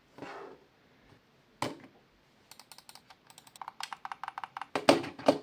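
Gaming mouse buttons clicking: a brief rustle and one knock, then a quick run of sharp clicks that speeds up and gets louder, ending with a few heavier knocks.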